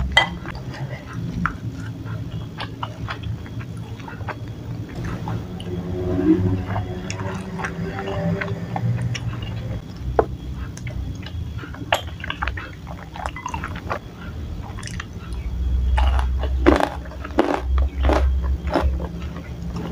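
Close-miked chewing and wet mouth sounds of someone eating chewy tapioca balls in spicy broth, with scattered light clicks of a spoon and fork against the bowl, over a steady low hum. The chewing is loudest and busiest near the end.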